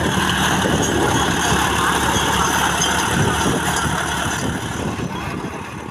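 Tractor engine idling steadily. The sound fades away near the end.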